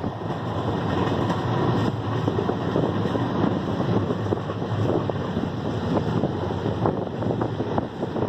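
Moving train's steady running rumble and rattle, with wind buffeting the microphone.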